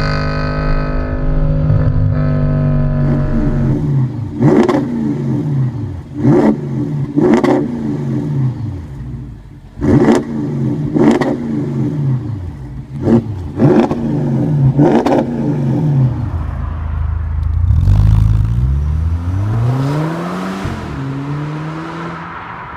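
Car engine with an aftermarket exhaust idling, then revved in a series of quick throttle blips with sharp cracks from the exhaust between them, and a longer rev to finish.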